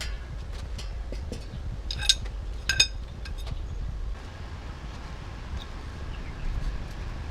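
Metal parts and tools clinking during workshop repair: scattered light clicks, with two ringing metallic clinks about two and three seconds in, over a low steady rumble.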